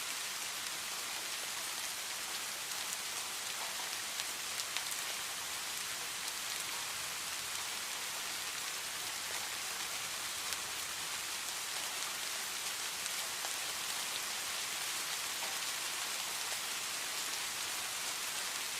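Steady, gentle rain falling on forest foliage: an even hiss of rain with scattered individual drops ticking.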